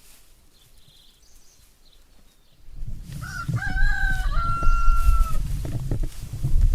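A rooster crowing once: a few short notes, then a long held final note. It sounds over a loud low rumble that comes in about two and a half seconds in.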